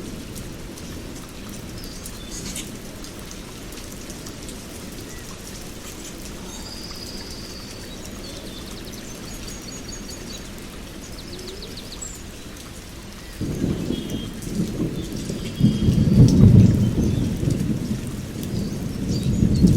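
Steady rain with small birds chirping and trilling in short high phrases. About two-thirds of the way in, a loud low rumble of thunder rolls in and builds, peaking a few seconds later.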